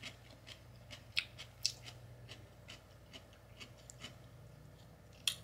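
A person chewing food close to the microphone: sparse, irregular crisp mouth clicks and small crunches, with one sharper click near the end.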